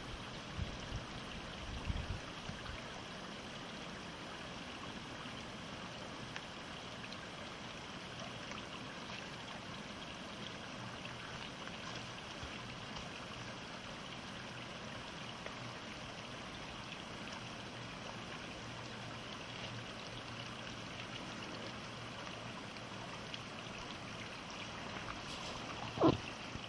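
Mountain stream flowing with a steady rushing sound, with a few low thumps in the first two seconds and a brief louder bump near the end.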